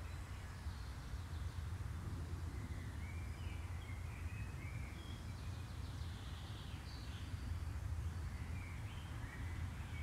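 Woodland ambience: birds chirping and calling in short phrases, mostly in the middle and again near the end, over a steady low rumble.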